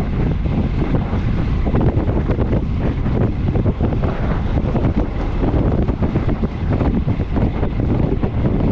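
Wind buffeting the microphone during a fast bicycle ride: a steady, fluttering rumble of wind noise, heaviest in the low end.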